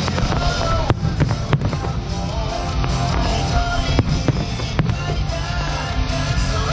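Fireworks bursting, with sharp bangs every half second to a second, over music with a heavy low end.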